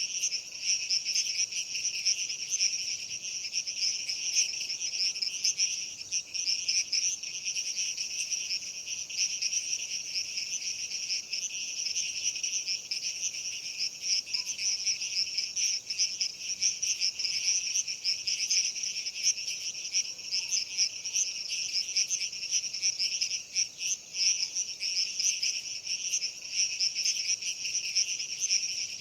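Steady, dense chorus of chirring insects, like crickets at night, sounding in two overlapping pitch bands, one higher than the other.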